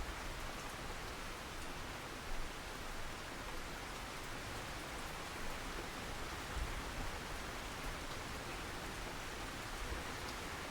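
Steady rainfall, an even hiss of rain with a few faint low thuds and scattered small drop ticks.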